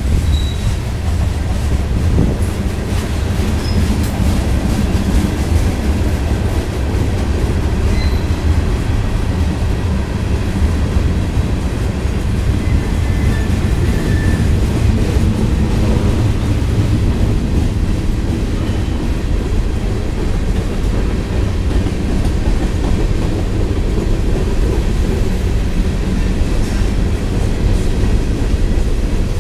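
Mixed freight train of covered hoppers, boxcars and gondolas rolling slowly past: a steady, loud rumble of steel wheels on the rails.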